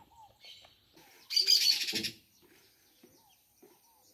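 Birds calling: short down-slurred notes repeated every second or so, and one loud, harsh, rapidly pulsing screech lasting under a second about a second and a half in.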